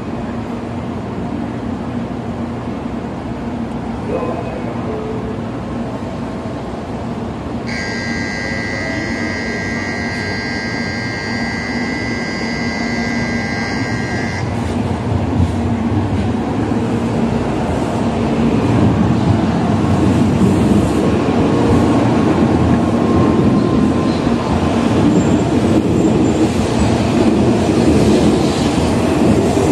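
Tokaido Shinkansen N700-series train pulling out of a station, its running and rolling noise steady and then growing louder through the second half as it gathers speed. About eight seconds in, a steady electronic warning tone sounds for roughly six seconds.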